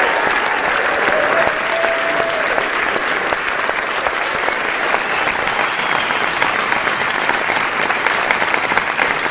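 Applause: many hands clapping in a dense, steady, even patter with no rhythm.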